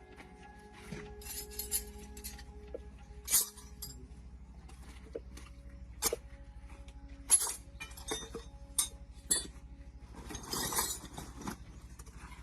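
Metal tools and engine parts clinking and tapping together in a series of sharp, irregular clinks, with a noisier rattle about ten seconds in, over a steady low hum.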